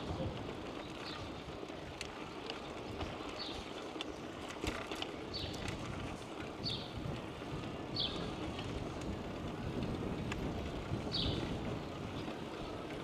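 Steady wind and rolling noise from a bicycle ride, with short, high, falling chirps every second or two and a few faint clicks.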